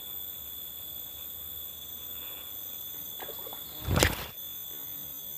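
Forest insects keep up a steady high-pitched drone of several constant tones. About four seconds in comes a single loud, short thump.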